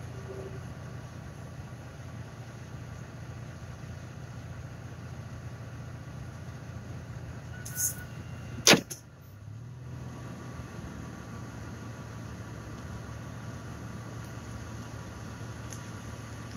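A vehicle engine idling steadily, with a short click just before the middle and a single loud, sharp knock just after it.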